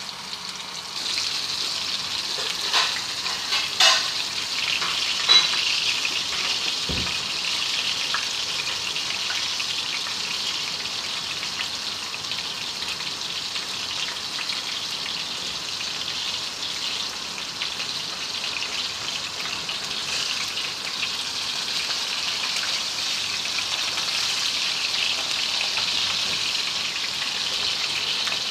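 Chicken pieces frying in hot oil: a steady sizzle that rises about a second in, with a few sharp clicks in the first several seconds.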